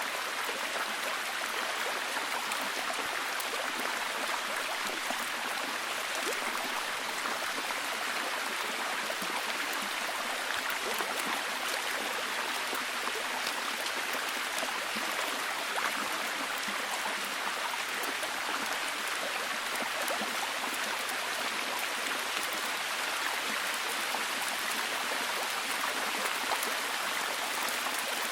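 Steady heavy rain: an even hiss of falling rain with many tiny drop ticks.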